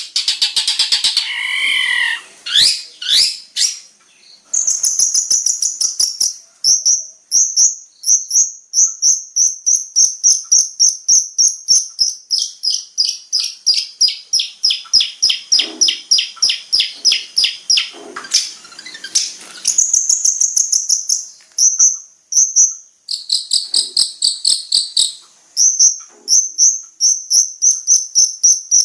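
Long-tailed shrike (cendet) singing a fast, varied song of rapidly repeated high chirps and trills, with mimicked phrases of other birds woven in.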